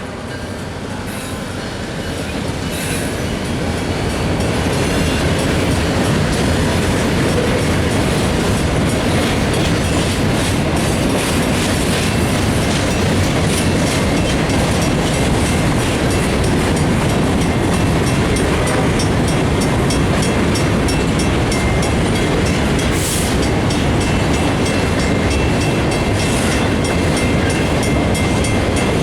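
Maryland Midland stone train rolling past, loud and steady: steel wheels clattering over the rail joints in a steady run of clicks, with a faint wheel squeal. The sound builds over the first few seconds, then holds.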